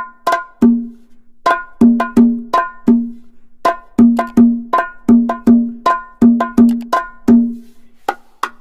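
Cowbell-like percussion: a run of sharp, hollow, pitched knocks in short uneven groups, about two to three a second.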